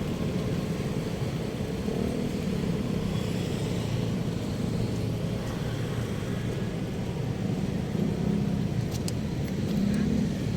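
Steady rumble of road traffic: car engines and tyres running continuously with no single vehicle standing out.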